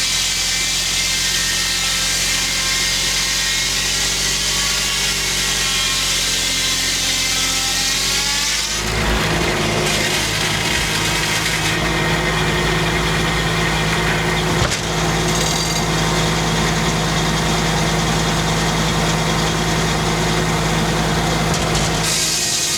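Homemade circular sawmill running: the blade spins free with a steady tone, then about a third of the way in it bites into a large white pine log and saws through it for about thirteen seconds, with one sharp knock midway, before running free again at the very end.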